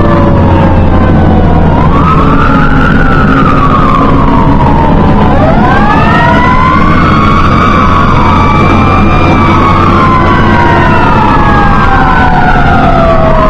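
Fire engine sirens wailing, with overlapping tones rising and falling about every four seconds and another tone sliding slowly downward throughout. The fire truck's engine drones steadily underneath.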